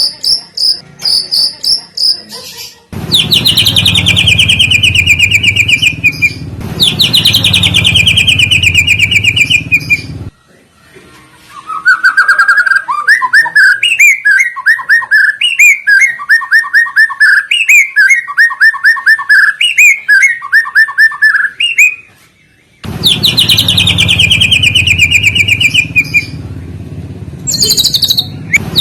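Songbird song played as a lure recording: bursts of fast trills sliding down in pitch, repeated in blocks several seconds long, and in the middle a run of quick, rhythmic chirped phrases.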